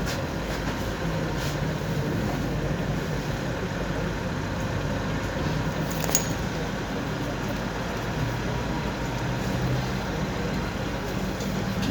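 Steady running noise of a moving tram heard from inside the car, with a low motor hum that shifts in pitch, and one sharp click about six seconds in.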